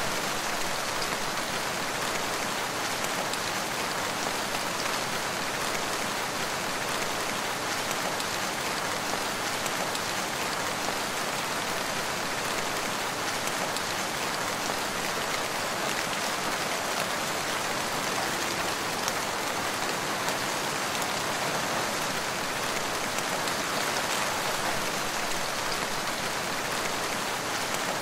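Steady rain falling in a forest, with a dense patter of drops on leaves and ground.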